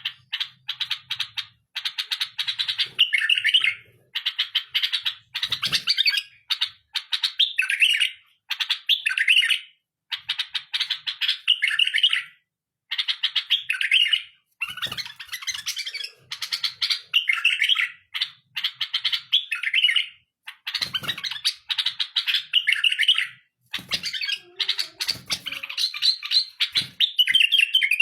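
Pet bulbul singing its full song: one phrase after another, each about one and a half to two seconds long, a quick run of chattering notes that ends in a warbled flourish, with short pauses between phrases.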